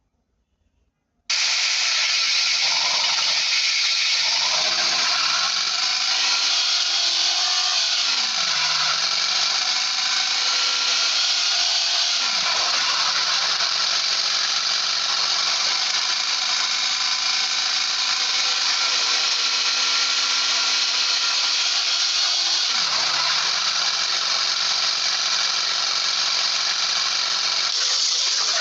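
Electric power tool motor switched on about a second in and running steadily with a high whine, its pitch dipping briefly a few times as it takes load.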